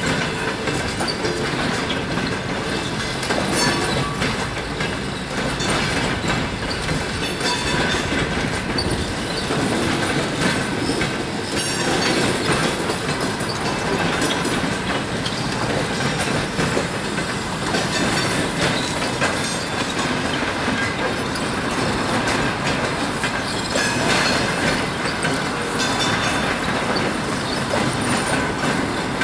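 Mail and baggage cars of a departing passenger train rolling past, their wheels clicking steadily over the rail joints.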